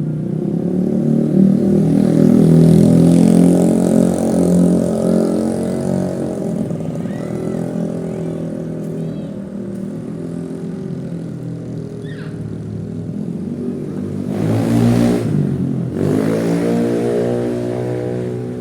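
Motor vehicle engine running loudly, its pitch shifting with the throttle, with a short rush of noise about fifteen seconds in followed by the engine revving up.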